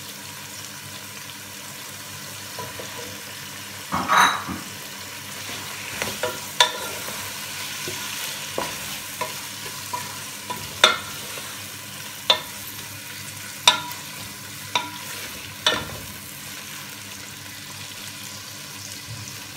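Chicken, onion and tomato sizzling in a pot while a wooden spatula stirs and scrapes through them. The spatula knocks sharply against the pot every second or two.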